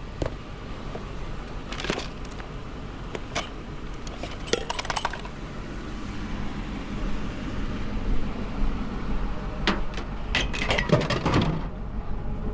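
Scrap metal items clanking and clinking as they are handled and dropped into a trailer: scattered single knocks, then a quick run of clanks near the end, over a steady low rumble.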